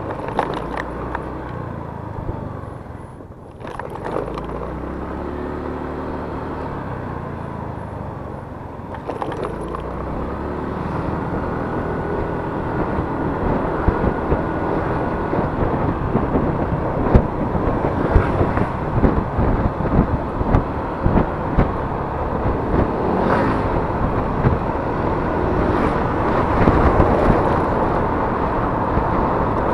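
Yamaha Mio S 125 cc automatic scooter running on the road, with wind noise on the microphone. A few seconds in the engine pitch rises as it accelerates, then the sound grows louder and rougher, full of short buffets and knocks.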